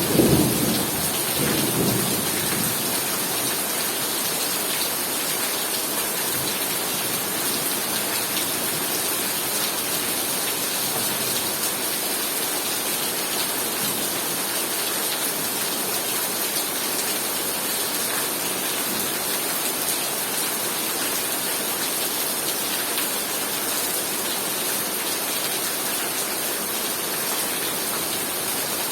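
Heavy rain pouring steadily in a thunderstorm, with a clap of thunder at the very start that rumbles away over about two seconds.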